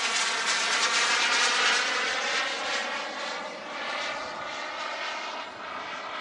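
Gas-turbine engine of an RC jet model aircraft in flight, a steady high whine that is loudest in the first two seconds and then fades as the jet moves away.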